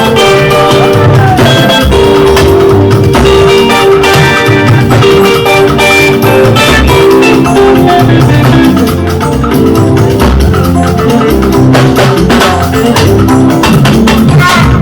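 Loud band music with drums and percussion under held melodic notes, at an even beat with no singing.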